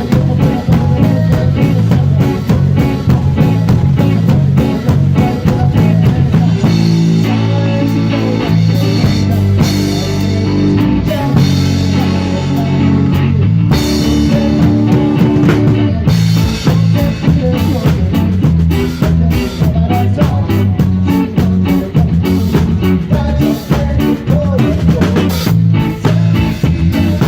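A live band playing a song during a soundcheck: drum kit, bass and electric guitar, loud and rhythmic, easing into a stretch of held chords with lighter drumming for several seconds before the full beat comes back.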